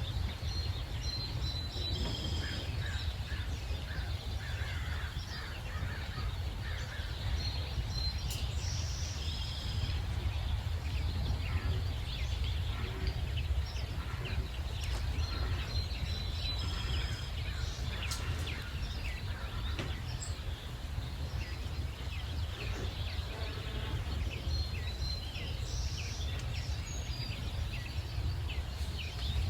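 Many small birds chirping and trilling in a dawn chorus, short calls overlapping throughout, over a steady low rumble.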